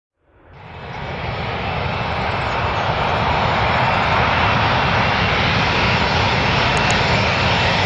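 Airplane engine noise fading in over the first couple of seconds, then a loud, steady rush with a faint high whine.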